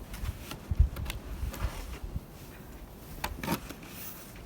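Snow shovel working through deep snow: scattered scrapes and crunches, with a sharp thump just under a second in and two more scraping strokes past the three-second mark.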